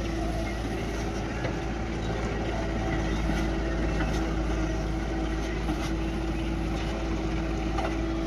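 Heavy diesel engine running steadily at a constant speed, with a steady hum that neither rises nor falls.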